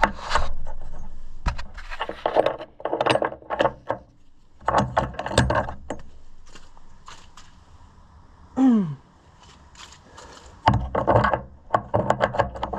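Metal tools and loose engine parts clinking, rattling and scraping in irregular bursts of handling. About eight and a half seconds in, a short sound falls steeply in pitch.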